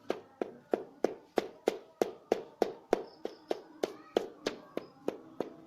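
A banana-stem stamp dabbed with paint and tapped quickly onto paper, a steady run of short taps about three a second.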